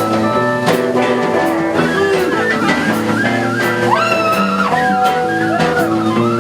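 Live band playing, with guitar over a drum kit whose cymbals strike at a steady beat. About four seconds in, a high note bends up and is held.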